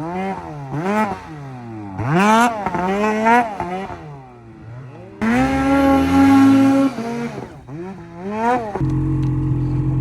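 Snowmobile engine revving up and down again and again, its pitch rising and falling with the throttle. About nine seconds in it gives way to a steady, even engine tone.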